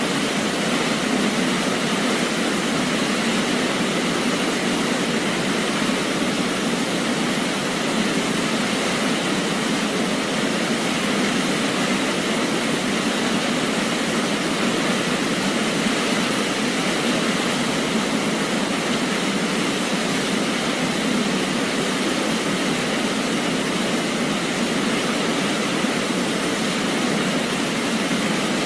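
Waterfall: a steady, unbroken rush of falling water with almost no deep rumble, unchanging throughout.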